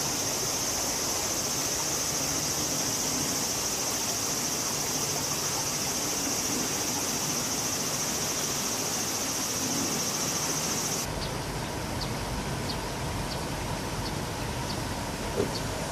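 Steady high-pitched insect drone over a constant noisy hiss. About eleven seconds in, it cuts off abruptly, leaving a low rumble with faint high ticks about twice a second and a single knock near the end.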